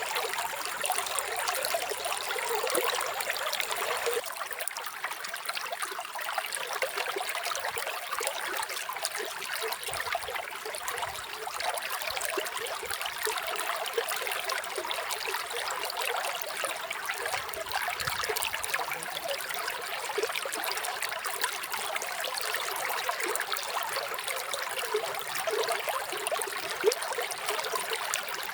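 Small stream of running water trickling and gurgling steadily.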